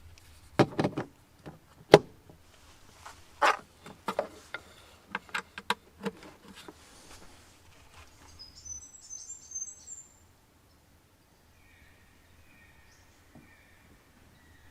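A series of sharp knocks and clatters, like camping gear being handled, over the first seven seconds or so. Then a bird gives a quick run of high chirps about eight seconds in, and a fainter steady high call follows near the end.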